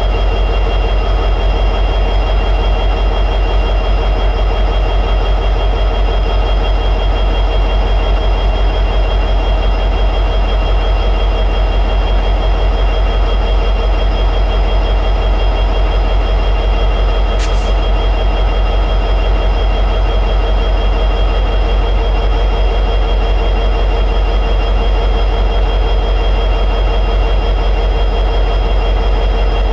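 EMD 710G3B diesel prime mover of an SD60-series locomotive, a 16-cylinder two-stroke engine, running steadily at high idle. A single brief click sounds a little past halfway through.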